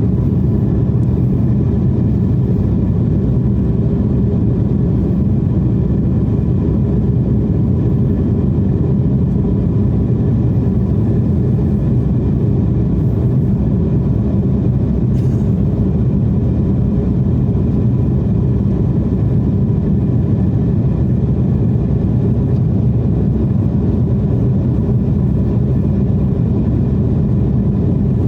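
Steady low roar of an airliner's jet engines and airflow heard from inside the passenger cabin in flight, with a faint steady hum above it.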